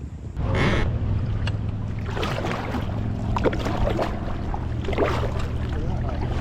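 Ducks splashing down on the water right beside a canoe, then calling with short quacks, over a steady low rumble.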